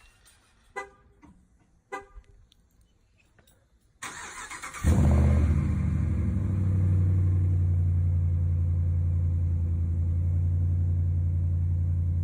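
Two short horn-like beeps, then a 2017 Ram 1500's 5.7 L Hemi V8 cranks for about a second, catches with a loud flare and settles into a steady, deep cold-start idle through its aftermarket exhaust.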